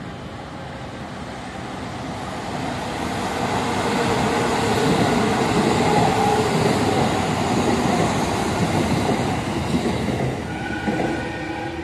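Electric commuter train passing below, the rumble and clatter of its wheels on the rails building to a peak midway and then fading. A few steady whining tones come in near the end.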